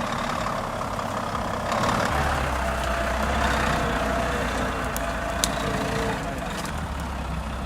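Heavy truck engine running under load, a low steady drone that grows stronger about two seconds in, with two short clicks past the middle.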